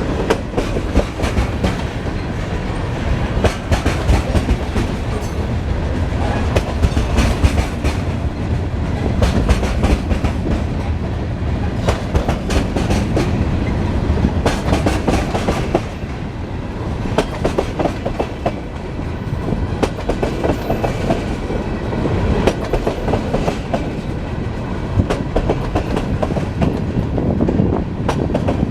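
Train cars rolling past, with the continuous rumble and rapid clickety-clack of steel wheels over the rail joints.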